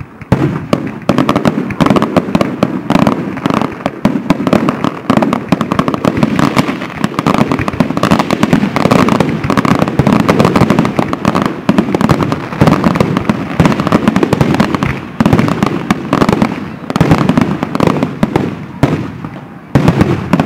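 Aerial fireworks shells bursting in a dense, continuous barrage of bangs and crackling.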